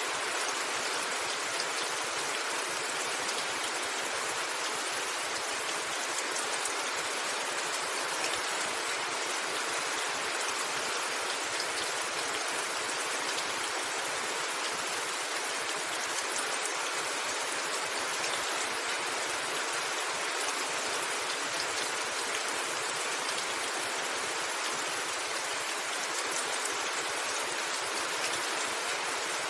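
Rain falling steadily on a roof: an even hiss with fine pattering and no thunder.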